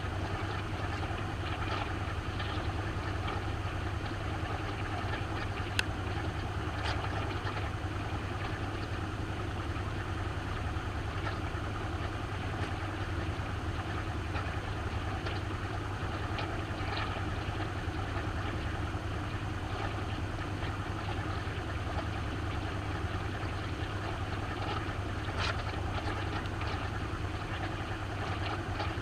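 Maytag washing machine running steadily near the end of its cycle, heard from inside the tub: a constant low motor hum under a rushing noise, with a few faint clicks.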